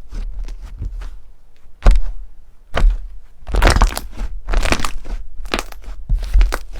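Crunchy slime being pressed and squeezed, giving irregular clusters of crackling and crunching. The loudest is a sharp crack about two seconds in.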